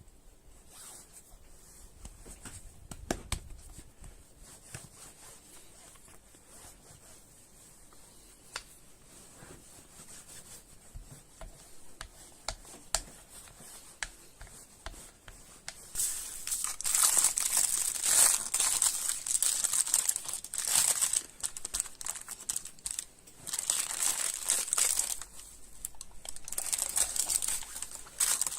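Sparse small clicks and taps, then about halfway through, loud crinkling and rustling starts and goes on in waves of bursts, as of a crinkly material being crumpled or torn by hand.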